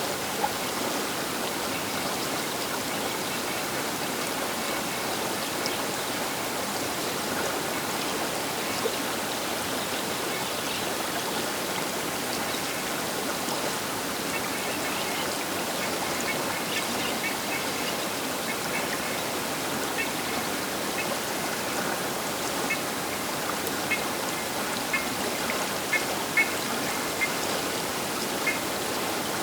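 Baker River water rushing steadily along the bank, with short high-pitched notes dotted through the second half.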